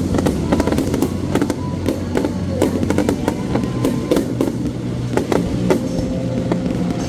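Fireworks going off in quick succession, many sharp bangs and cracks, over music with steady low tones.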